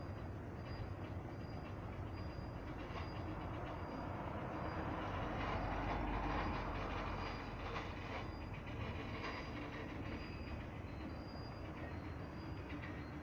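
Freight train grinding and squealing on its brakes as it goes into an emergency brake application. The noise swells about halfway through, then settles.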